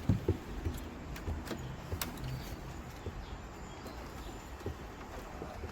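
Quail pecking at a dish of fermented feed: irregular light taps.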